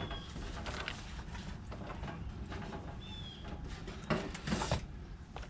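Handling noise from a heat pump outdoor unit's sheet-metal top being lifted and shifted aside: scattered knocks and scrapes, a brief squeak about three seconds in, and a louder scraping rustle about four seconds in.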